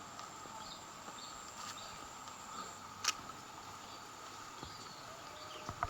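Steady chorus of insects chirring over rural outdoor quiet, with a few short high chirps scattered through it. A sharp click about three seconds in, the loudest moment, and another near the end.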